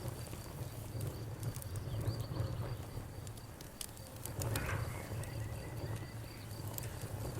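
Bonfire crackling, with scattered sharp pops over a steady low rumble and a brief hissing flare about halfway through. Crickets chirp throughout in a high, even, rapid pulse.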